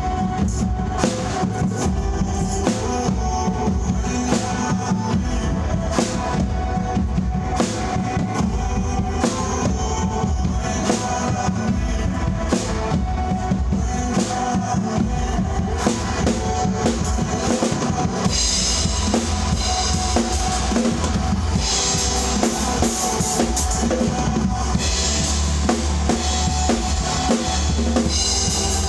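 Drum kit played along to a recorded song, with steady kick and snare over the backing track; the cymbals get louder and heavier about two-thirds of the way through.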